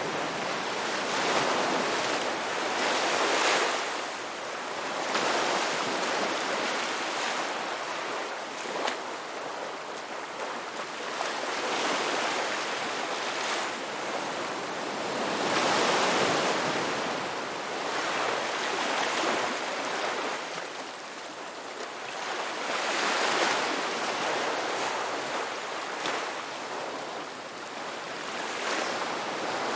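Ocean waves breaking and washing onto a shore, the surf swelling and easing every few seconds.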